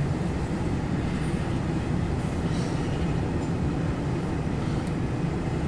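CSX intermodal freight train rolling past, a steady rumble of wheels on rail.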